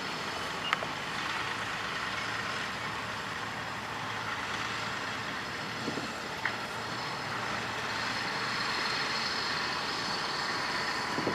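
Truck engine running steadily, with a couple of faint clicks.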